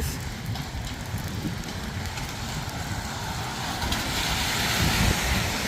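Road vehicle passing on a wet street: a low rumble with a tyre hiss that swells about four seconds in.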